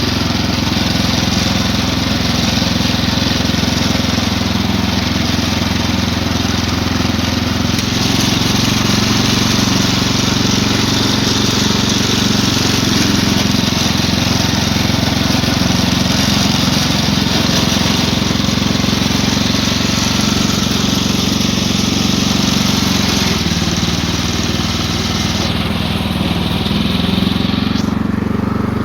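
Brand-new Ariens Deluxe 24 snowblower's single-cylinder four-stroke engine running steadily just after its first start, choke partly off. Its note shifts a little about eight seconds in and again a few seconds before the end.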